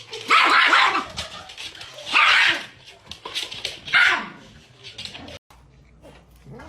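A dog barking loudly three times, about a second and a half to two seconds apart.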